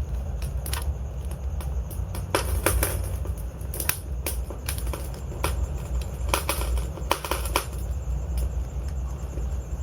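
Wood logs burning in a fireplace, crackling with irregular sharp pops, several close together around two to four seconds in and again around six to eight seconds, over the fire's steady low rumble.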